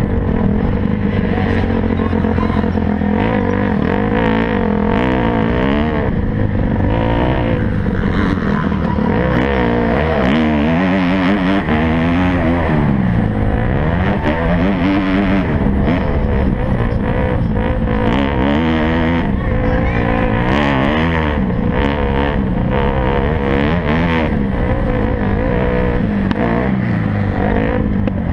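Several motocross bike engines racing, revving hard and easing off again and again, their pitch climbing and dropping every second or two with throttle and gear changes.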